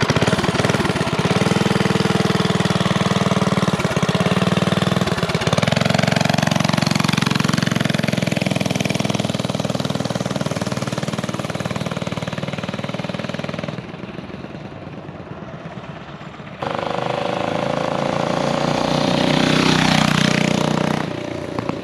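Minibike engine running under throttle as it is ridden. Its level drops away for a few seconds about two-thirds through, then it picks back up and rises as the bike comes close by near the end.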